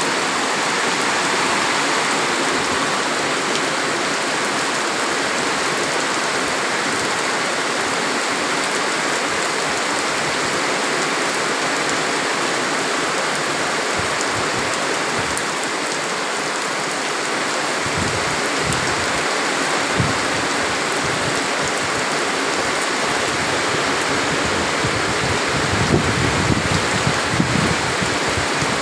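Heavy rain pouring down, a steady loud hiss of the downpour, with a few low thumps in the second half.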